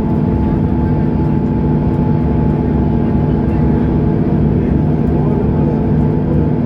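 Diesel engine of a Mercedes-Benz O530 Citaro Facelift Ü bus running steadily under way, heard from on board. It gives a loud, even drone whose pitch holds constant, the sound of the bus cruising at a steady speed.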